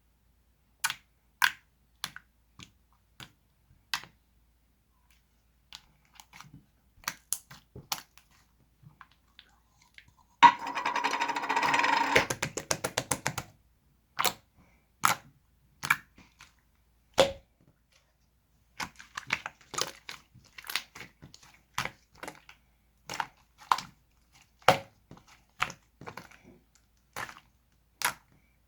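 Slime being squeezed and handled, giving sharp clicks and pops at irregular intervals, with a dense run of crackling for about three seconds near the middle.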